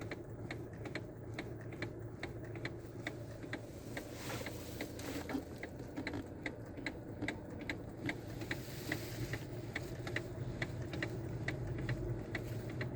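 Electric power-steering column of a 2019 Jeep Compass clicking in a rapid, even series, about four clicks a second. The clicking is the sign of a worn bushing, and a loose bearing, inside the column. A steady low hum of the diesel engine idling runs underneath.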